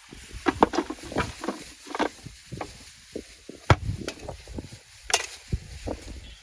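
Camp cooking gear being handled: irregular knocks and clatters, several a second, with a few sharper knocks.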